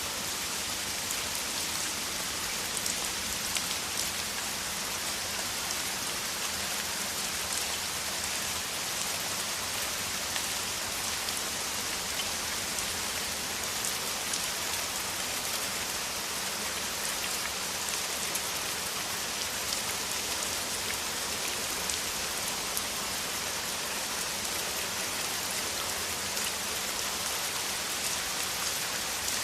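Heavy rain in a steady downpour: a dense, even hiss of rainfall with faint individual drop hits scattered through it.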